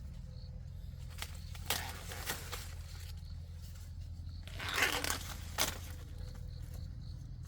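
A few short crackling, tearing rustles of dry plant material, the loudest about five seconds in, over a steady low hum.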